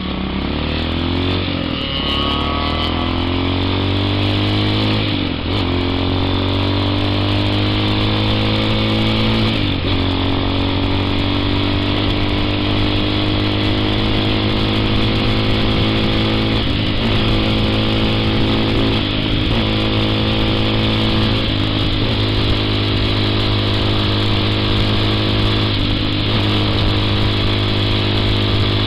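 TaoTao TBR7 dual-sport motorcycle's small single-cylinder engine running under way. Its pitch climbs and then drops back several times, as with throttle changes or gear shifts, and holds steadier later on.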